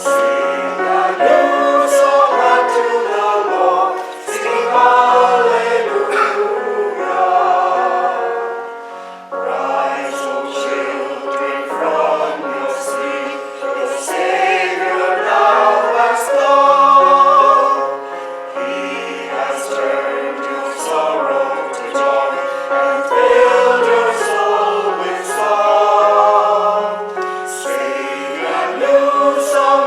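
Church choir singing, several voice parts at once on held notes.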